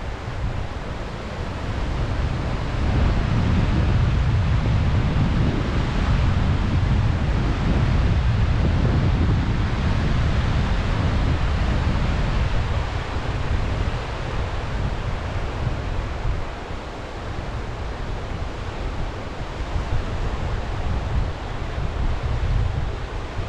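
Sea waves washing on the shore under a steady rush of surf, with wind buffeting the microphone. It swells louder a few seconds in and eases off in the second half.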